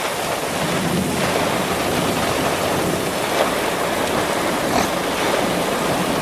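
Severe thunderstorm wind and driving rain make a steady rushing noise, with gusts buffeting the microphone.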